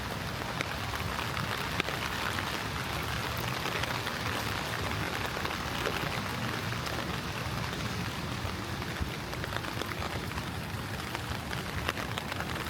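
Steady rain falling on the ground and surfaces around, a constant hiss dotted with many small drop ticks.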